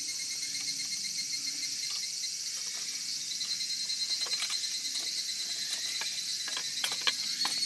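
Steady high-pitched chorus of insects, with a second steady tone joining about three seconds in. Scattered light clicks and taps sound over it.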